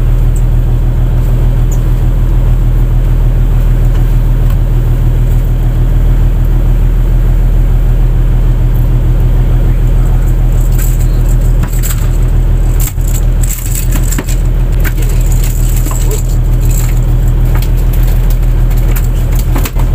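Fishing boat's engine running loud and steady. About halfway through, irregular clatters and knocks come in over the engine.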